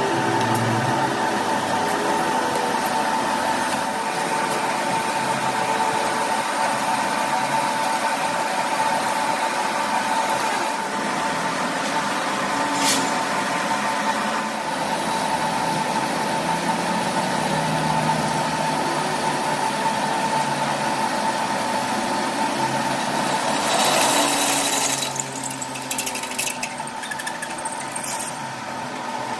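A machine motor running steadily with a constant whine, with one sharp click a little before halfway and a brief louder burst of noise about four-fifths of the way through.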